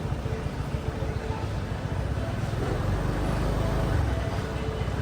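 Steady road and traffic noise heard from a moving motorbike, with a heavy low rumble and wind buffeting the microphone.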